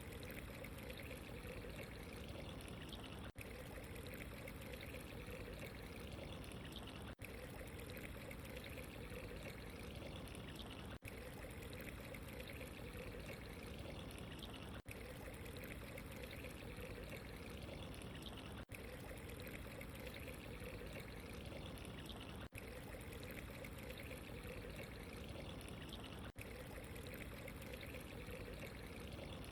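Running water trickling and pouring steadily, faint and even. The sound is briefly cut by very short dropouts about every four seconds, as where a short recording loops.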